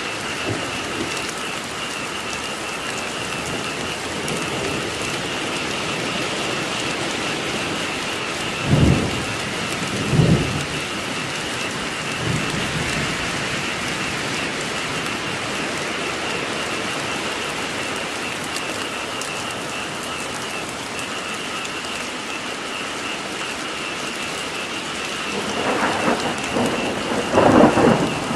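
Steady rain with a continuous chorus of frogs croaking. A few short, louder low sounds stand out, two about nine and ten seconds in and a couple more near the end.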